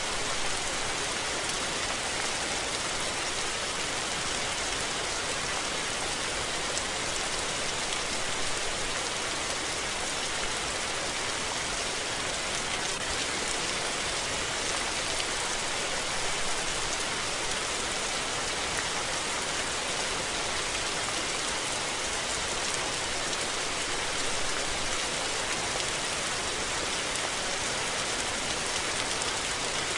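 Steady rain falling and pattering on surfaces, a constant hiss with no let-up and no thunder.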